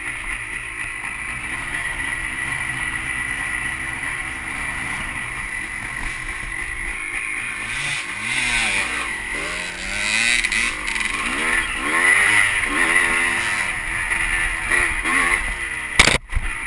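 Dirt bike engine running while riding a trail, its pitch rising and falling over and over with throttle changes through the second half. There is a brief break in the sound near the end.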